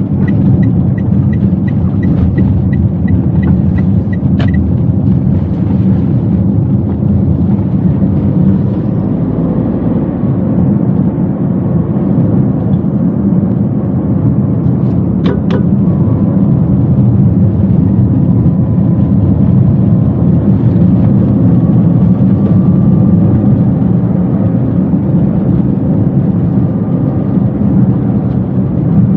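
Engine and road rumble of a Toyota Wigo heard from inside the cabin while driving, with a faint whine rising slowly in pitch through the second half. A fast, light ticking stops about four seconds in with a sharp click, and two more clicks come about fifteen seconds in.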